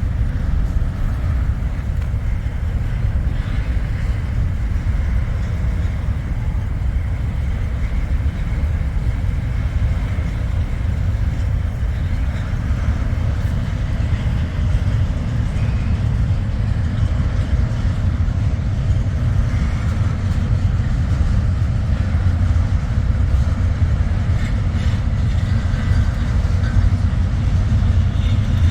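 Long freight train rolling by, a steady low rumble of its cars on the rails.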